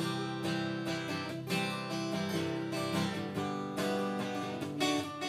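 Acoustic guitar strumming steady chords in an instrumental passage of a Japanese folk song, between sung lines.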